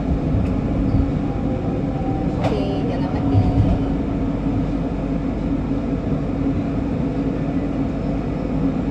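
MRT Kajang Line electric metro train running, a steady rumble with a constant hum. About two and a half seconds in there is a short sharp sound with a quickly falling squeal.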